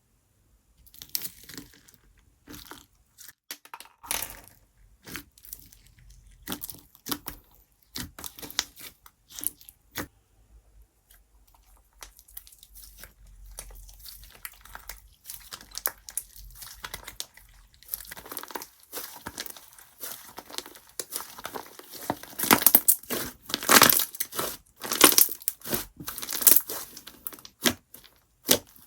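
Slime mixed with small wave-shaped foam cushioning pieces being worked by hand, giving irregular crackles and crunches. The crackles are sparse at first and grow denser and louder over the last several seconds.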